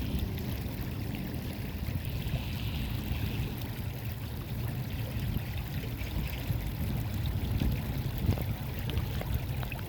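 Shallow stream water flowing and trickling steadily, an even rushing hiss over a low rumble.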